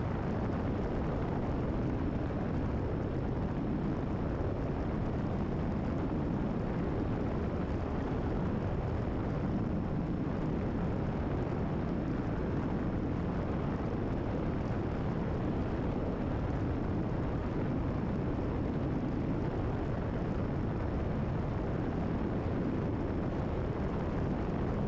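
Cessna 172RG's Lycoming O-360 engine and constant-speed propeller running steadily at cruise-climb power, about 25 inches of manifold pressure and 2,500 rpm, heard from inside the cabin as an even, unchanging noise.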